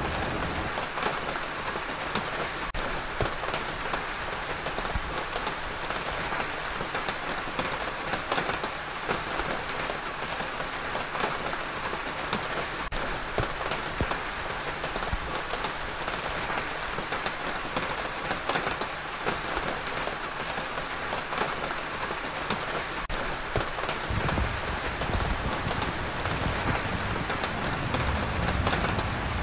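Steady rain falling, a dense hiss full of small drop ticks. A low rumble joins near the end.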